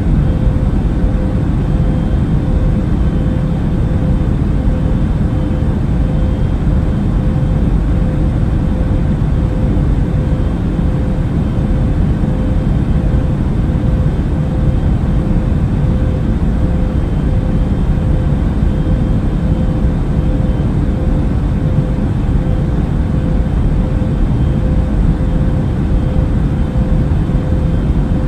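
Airplane cabin noise in flight: a steady, even low rumble of engines and airflow, with a constant hum running through it.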